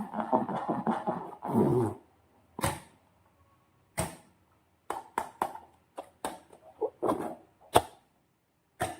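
Slime being squeezed and worked by hand: dense wet squelching for about two seconds, then a string of short, sharp pops and clicks from air pockets and sticky slime snapping.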